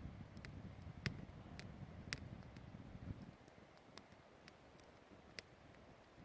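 Wood campfire crackling faintly, with scattered sharp pops, about eight of them. A low rumble under the pops dies away a little over three seconds in.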